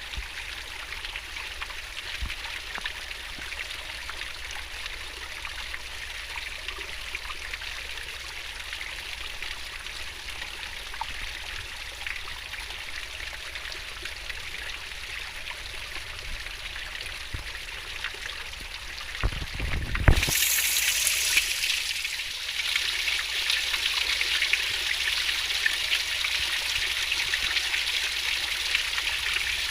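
Swiftly flowing river water, a steady babbling trickle. About twenty seconds in, a brief low thump, after which the water sounds louder and brighter.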